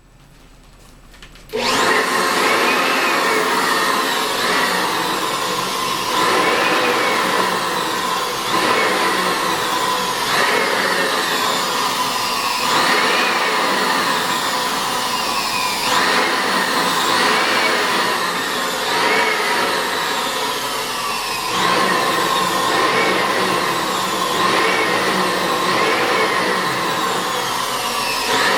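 Electric air pump inflating a balloon. It switches on about a second and a half in and runs steadily, with a rise and fall in pitch repeating every couple of seconds.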